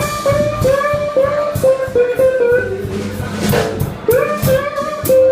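Live blues band: an electric guitar plays a lead line of sustained notes, several of them slid or bent up into pitch, over a bass guitar line and drums with cymbal hits.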